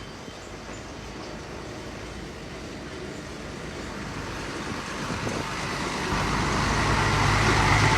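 Heavy construction machinery engine running and growing steadily louder, with a deep steady engine note coming in about six seconds in.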